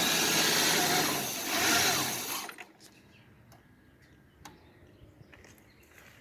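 1998 Ford Ranger's 4.0-litre V6 idling with a rough idle, then cutting off suddenly about two and a half seconds in; after that, only a few faint clicks.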